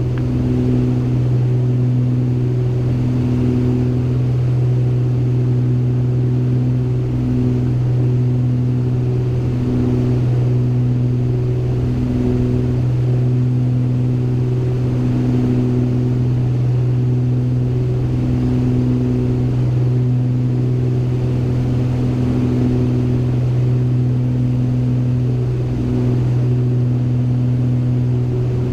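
Beechcraft Baron G58's twin piston engines and propellers running steadily in cruise, heard as a loud constant drone in the cockpit. A higher tone in the drone swells and fades about once a second, the beat of two propellers turning at slightly different speeds.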